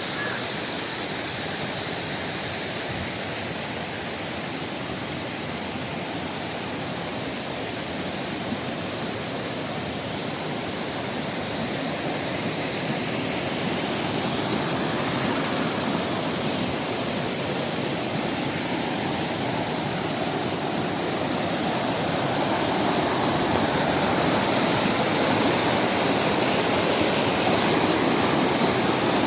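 Steady rush of falling water at a waterfall, growing gradually louder toward the end.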